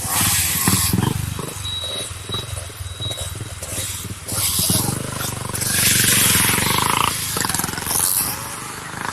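Yamaha RX 100's two-stroke single-cylinder engine revving hard in repeated surges as the motorcycle is ridden, with rushes of hiss over it.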